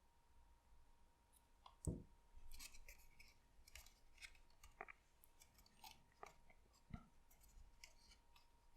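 Faint rustling and small clicks of papercraft paper being handled and pressed together during gluing, with a louder tap about two seconds in and another near seven seconds.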